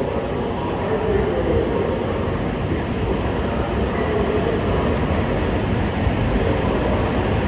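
E5 series Hayabusa shinkansen pulling out of the station: a steady rumble of running noise that grows gradually louder as it gathers speed.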